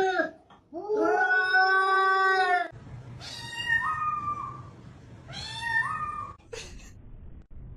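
A cat meowing: one long, drawn-out meow, then two shorter meows that each step up in pitch partway through.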